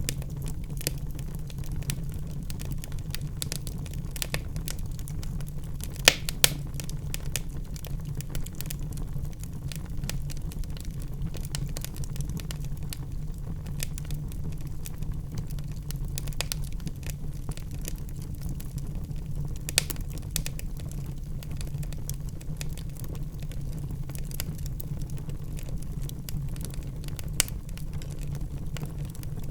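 Wood fire burning logs in a fireplace, crackling: a steady low rumble of the flames with constant small crackles and a few sharper pops, two of them close together about six seconds in.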